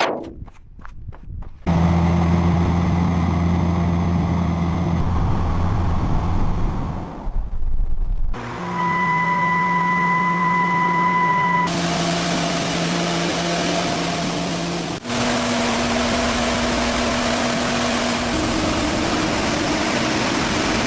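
Motor-driven machinery running in a succession of steady stretches that change every few seconds: a low hum, then a high steady whine, then a hissing grind. Quick ticking comes first.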